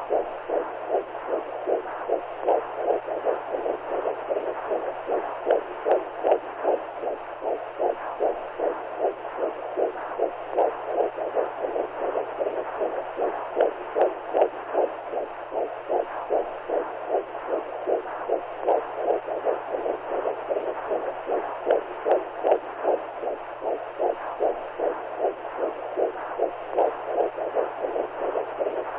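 Womb sound for soothing newborns: a rhythmic whooshing pulse like a heartbeat heard through the body, about two pulses a second, over a steady low hum.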